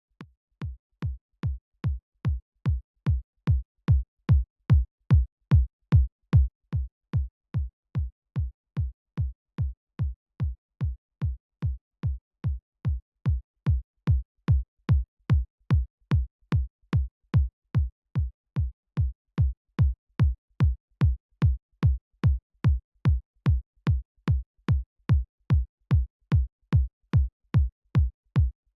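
Synthesized electronic kick drum repeating on its own at about two hits a second, each a short click on top of a deep thump that drops in pitch. It fades in at the start, and its loudness shifts a little as the kick is reshaped with plugins.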